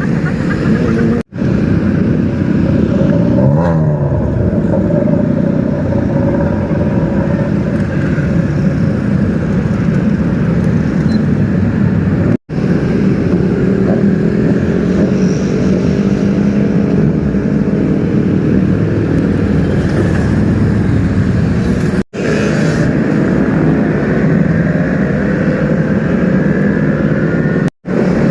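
Superbike engines running and revving in street traffic, with a pitch that rises and falls as a bike goes by a few seconds in. Several clips are cut together, with brief drop-outs between them.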